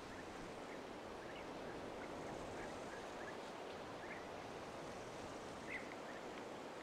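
Outdoor ambience: a steady rushing noise with small high ticks scattered through it, one a little louder near the end.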